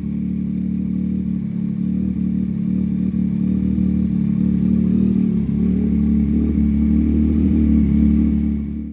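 Yamaha MT-09 SP three-cylinder engine running through an Austin Racing aftermarket exhaust with an open airbox-delete filter: a loud, steady, deep exhaust note that grows slightly louder. It cuts off suddenly at the end.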